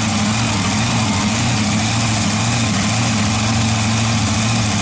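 Mud truck engine idling steadily, with no revving.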